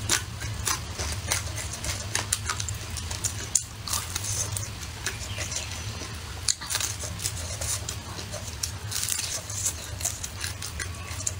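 Close-miked chewing of a crisp-coated fried chicken drumstick, full of small crunches and mouth clicks, over a steady low hum.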